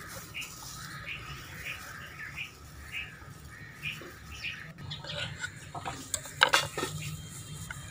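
A bird chirping over and over, short high chirps about every half second. About five seconds in, a few sharp clicks and knocks come in; these are the loudest sounds.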